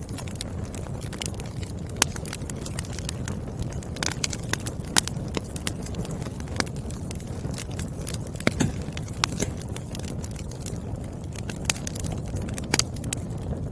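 Wood fire burning, with irregular sharp crackles and pops of burning firewood over a steady low rumble; a few pops stand out louder.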